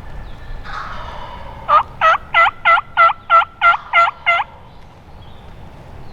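A run of nine loud turkey yelps, evenly spaced at about three a second, each note dipping and rising in pitch, over a steady background of wind and rain. A short rasping sound comes just before them, about a second in.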